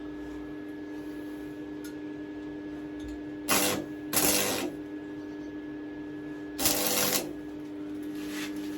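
Stick (arc) welder humming steadily, with three short crackling bursts of welding arc, about three and a half, four and six and a half seconds in, as short welds are laid on a pit bike's steel swing arm.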